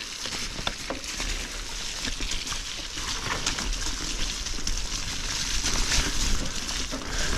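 Mountain bike rolling down a wet trail in the rain: tyre hiss and splashing, with frequent knocks and rattles from the bike and a low wind rumble on the camera, growing louder as it picks up speed.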